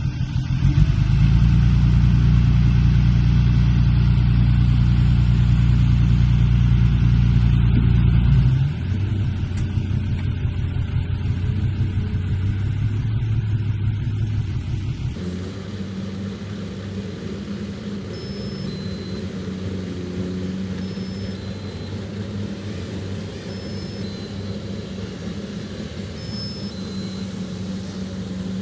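Heavy diesel earthmoving engine running hard and loud, easing off at about 8 s. From about halfway it runs lower and steadier, with faint short high-pitched beeps repeating about once a second.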